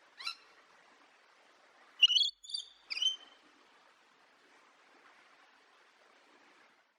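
Bird calls: a quick upward-sweeping call just after the start, then three short, loud calls in quick succession about two to three seconds in, over a faint background hiss.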